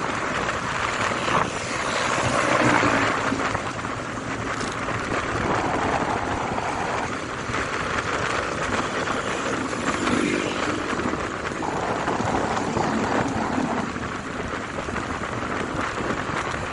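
Motorcycle on the move: a steady rush of wind and road noise with a faint engine hum underneath, swelling about two to three seconds in.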